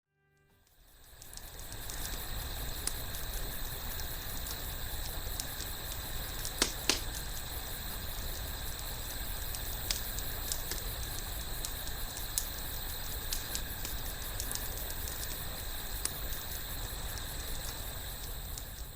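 Wood fire burning: a steady hiss dotted with frequent sharp crackles and pops, with two louder pops about seven seconds in. The sound fades in over the first second or two.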